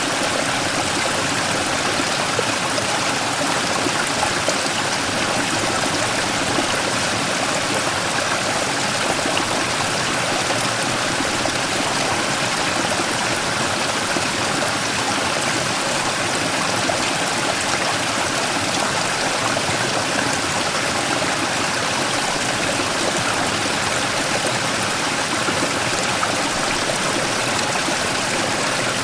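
Mountain stream rushing and splashing steadily over a large boulder, a continuous even rush of water.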